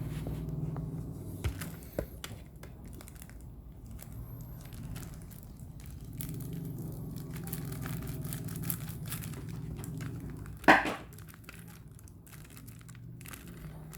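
VCD packaging being unwrapped, crinkling and tearing, with scattered small clicks and one loud crackle near the end, over a steady low hum.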